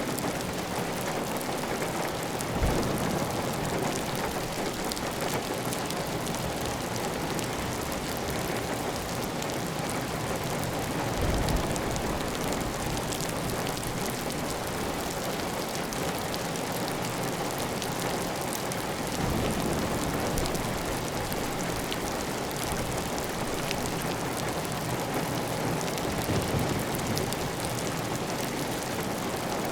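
Heavy, steady rain falling on a clay-tile roof, with water running off the roof edge. A few brief low thuds stand out from the even patter.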